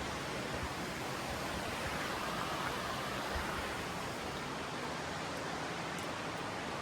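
Steady rushing of flowing water, a creek running high.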